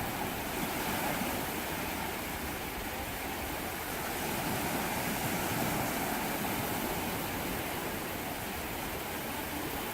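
Sea waves washing up on a beach: a steady rush of surf that swells a little about a second in and again around the middle.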